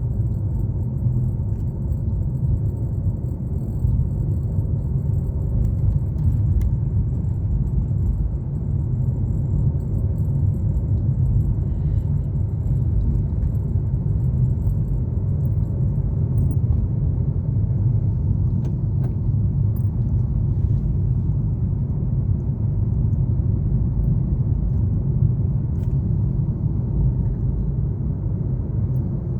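Car driving on a highway: a steady low rumble of engine and tyre noise, with a few faint light rattles.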